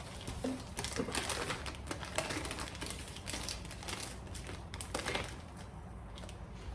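Chef's knife chopping slabs of chocolate on a cutting board: a run of quick, irregular taps and knocks.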